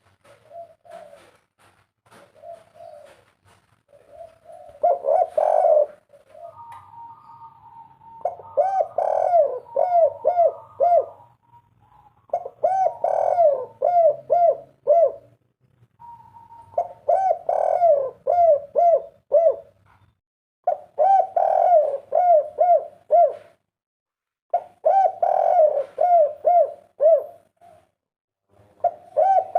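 Spotted dove (tekukur) cooing over and over in bouts of quick, low, arched coos, with short gaps of a second or two between bouts.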